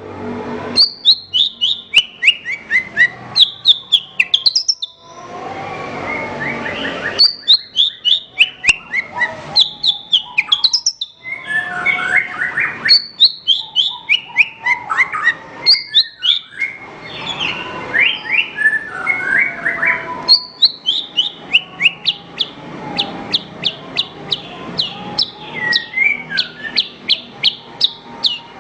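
Javan bush lark (branjangan) singing: rapid runs of short, sharp chirps, many falling in pitch, broken by brief pauses and busier warbling passages.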